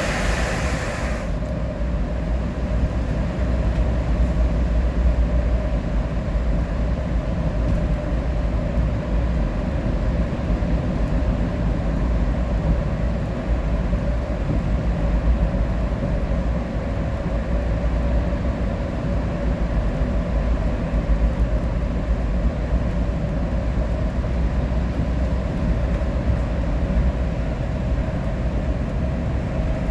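Steady rumble of a vehicle cruising on a highway, heard from inside the cab, with a faint constant drone under it. A bright hiss at the start drops away abruptly about a second in.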